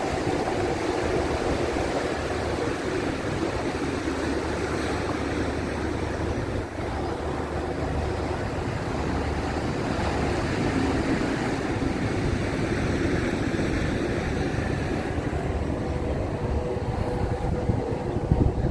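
A river passenger ship running steadily under way: a low engine rumble mixed with the rush of water and wind, with a faint steady hum joining about three-quarters of the way through.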